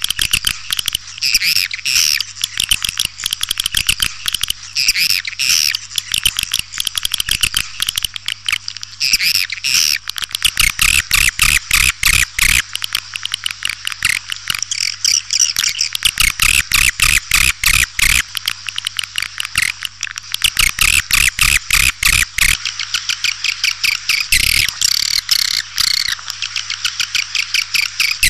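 Swiftlet lure call: a dense, continuous twittering of swiftlets, rapid chirps and clicks in quick bursts. A steady low hum runs underneath.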